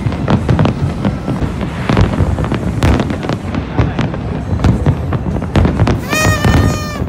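Fireworks display: a dense, continuous run of bangs and crackles from shells bursting over the harbour.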